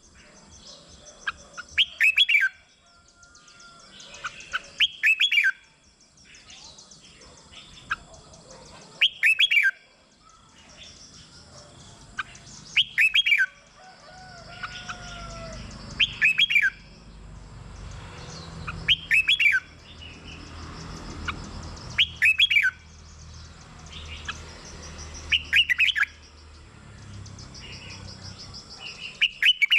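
Red-whiskered bulbul singing: short, loud, warbled phrases repeated about every three to four seconds, with softer chirps between them.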